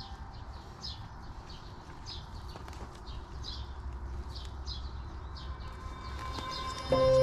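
A small bird chirping over and over, about two short high chirps a second, over a low steady rumble. Background music comes in loudly near the end.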